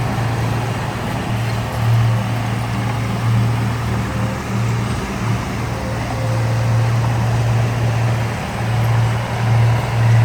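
Diesel engine of heavy earthmoving machinery running steadily, a low drone that swells and dips as the engine works.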